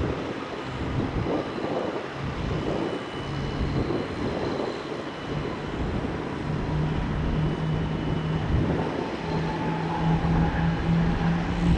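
Jet engine noise from an Airbus A350's Rolls-Royce Trent XWB turbofans after takeoff, a steady broad rumble. A low hum builds under it from a few seconds in and grows louder toward the end.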